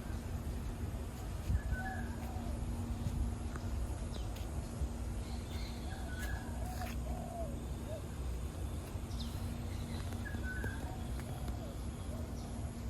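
Birds calling in an aviary: a short call repeats about every four seconds, with softer, lower chirps between, over a steady low hum.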